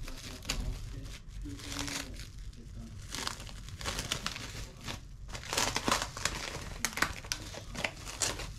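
Food packaging crinkling as it is handled, in irregular bursts that grow denser in the second half.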